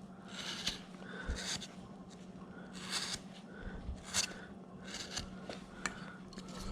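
Hand woodcarving tool slicing into wood in a series of short scraping cuts, about one a second. A faint steady hum runs underneath.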